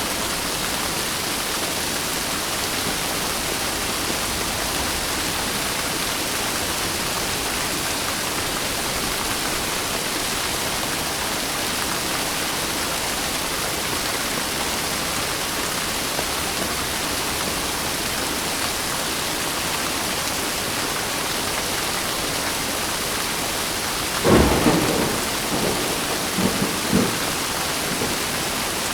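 Steady rain hissing, with a sudden thunderclap about 24 seconds in, followed by a few seconds of rumbling.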